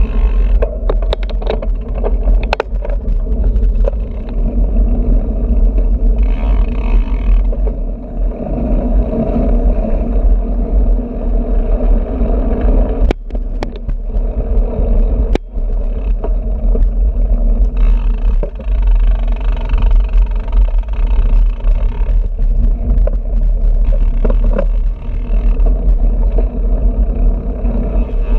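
Wind rumble and road noise on a bicycle-mounted action camera while riding, with two sharp knocks about halfway through.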